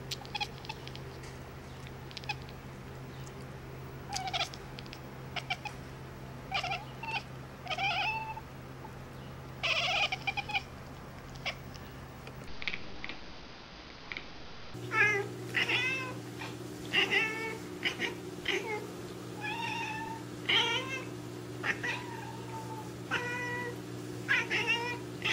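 Domestic cats meowing in short, chirpy calls, first scattered, then in quicker runs after a cut about halfway through, over a steady low hum.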